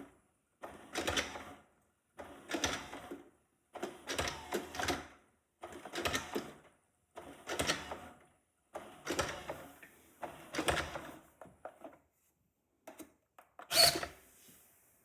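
Shark robot vacuum clattering in repeated bursts about every second and a half as it moves and bumps, with a sharper, louder knock near the end.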